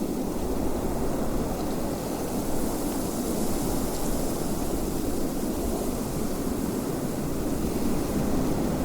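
Wind blowing steadily, a dense rushing noise at an even level throughout.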